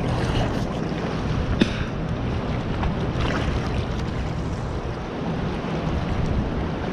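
Steady wind rumbling on an action camera's microphone, with one faint click about a second and a half in.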